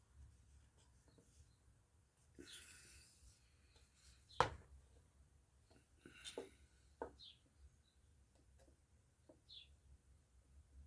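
Light clicks and taps of small wooden parts and a glue bottle being handled, with a brief rustle a little over two seconds in and one sharper knock about four and a half seconds in.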